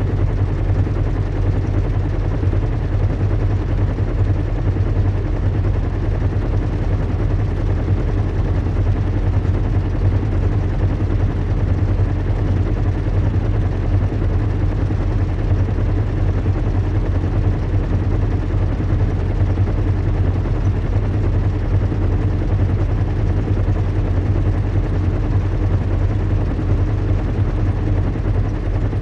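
Recreated airship-in-flight ambience: a steady low engine drone with a deep hum and an even hiss above it, unchanging throughout.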